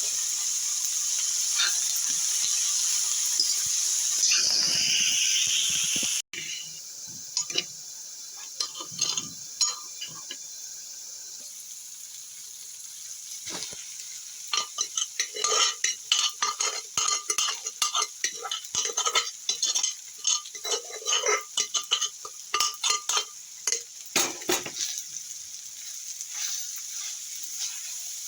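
Chopped vegetables sizzling in a hot frying pan, a loud steady hiss that cuts off suddenly about six seconds in. From about halfway, a spatula stirs and scrapes the vegetables around the pan in quick clicking strokes over a quieter sizzle.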